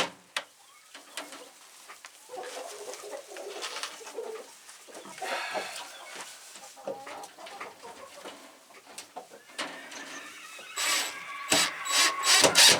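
Chickens clucking softly. Near the end comes a quick series of loud, short rasping strokes.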